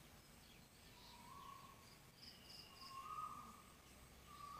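Near silence with faint bird calls: a short call repeated three times, about a second and a half apart, and a few faint high chirps.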